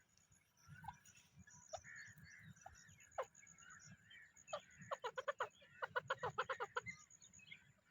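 Teetar partridges calling: single sharp notes that sweep downward, then about halfway through two rapid runs of roughly a dozen quick repeated notes each. Faint chatter of other birds and a high, steady ticking run underneath.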